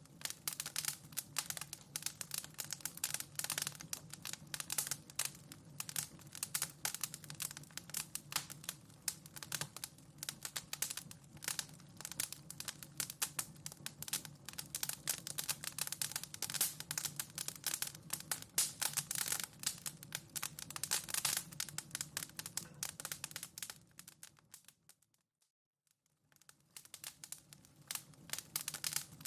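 Wood fire in a fireplace crackling, a dense run of quick snaps and pops over a low steady hum. A little before the end it fades out to silence for about a second, then fades back in.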